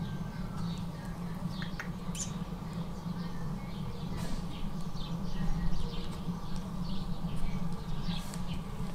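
Small birds chirping, many short high chirps scattered throughout, over a steady low hum.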